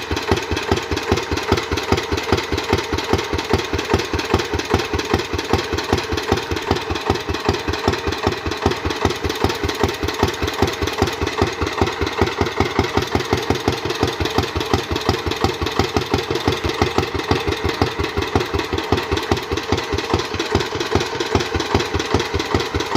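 Vintage British stationary engine running steadily, with even exhaust beats at about five a second.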